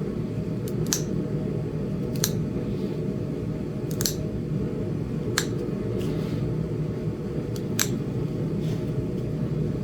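Sharp, irregular clicks of small flakes snapping off a Flint Ridge chert point as it is worked down, about seven in all, over a steady low hum.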